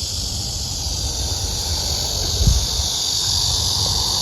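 A steady, high-pitched chorus of summer insects shrilling without a break, over a low uneven rumble, with one brief low thump about halfway through.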